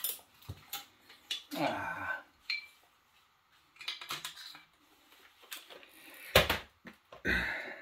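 Metal engine parts and hand tools clinking and knocking against each other as a seized Honda engine is taken apart. The sound comes as scattered, separate knocks with short quiet gaps between them, and the loudest knock is about six and a half seconds in.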